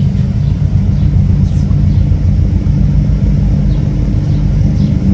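Lamborghini Aventador's 6.5-litre V12 running at low revs close by, a loud, steady low engine note without a rev.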